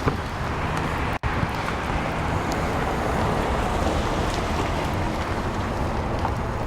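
Steady wind rushing over the microphone outdoors, with a brief sudden cut-out a little over a second in.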